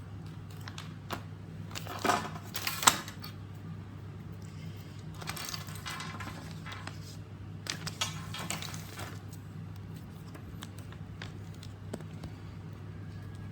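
Clicks and rattles of small plastic parts and tools being handled, loudest about two to three seconds in, with scattered crackly handling around the middle, over a steady low hum.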